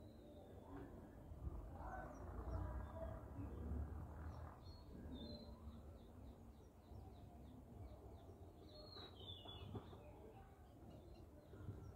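Faint, high bird chirps: a quick series of short notes through the middle and a slightly stronger call about nine seconds in, over a low rumble.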